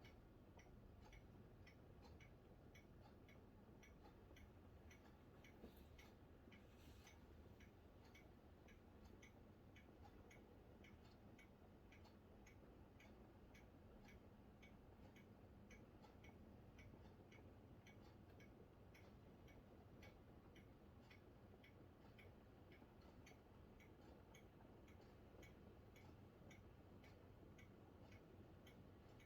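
Near silence with a faint, regular ticking, about two ticks a second, and one brief faint hiss about seven seconds in.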